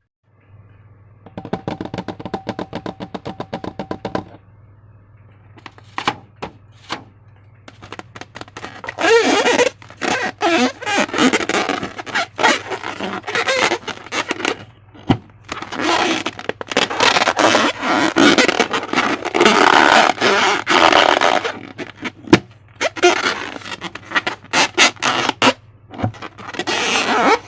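Slime and rubber balloons being squeezed and worked by hand close to the microphone. A quick run of clicks for about three seconds near the start, then dense crackling and squelching bursts from about nine seconds in.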